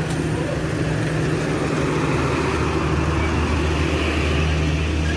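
Steady engine hum and road noise inside a moving car.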